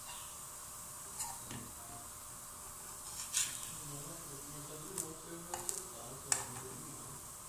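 A kitchen utensil knocking and scraping against a frying pan while a crepe cooks: a few light, scattered knocks over a faint steady hiss.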